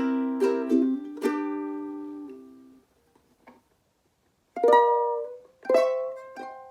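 aNueNue Moon Bird US200 ukulele strummed: a few quick chords, then a chord left ringing until it dies away. After a pause of about two seconds, two more single chords are struck and left to ring.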